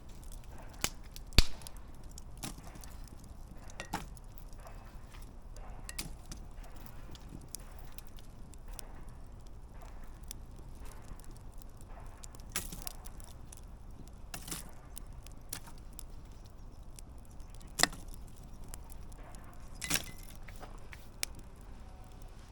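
Wood campfire burning and crackling, with irregular sharp pops from the burning logs; the loudest pops come about a second and a half in and near the end, under a low steady rumble of the flames.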